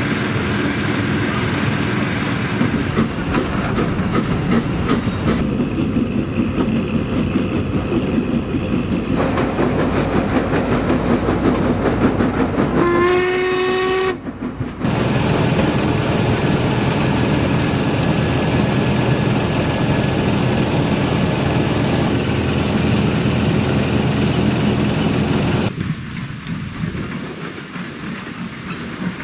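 Steam locomotive running, with one blast of its steam whistle, a steady single-pitched note about a second long, about halfway through. The running sound changes abruptly several times.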